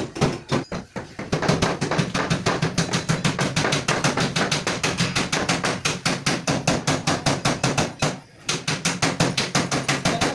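Rapid, even hammer blows, about seven a second, with a short break about eight seconds in before the hammering resumes.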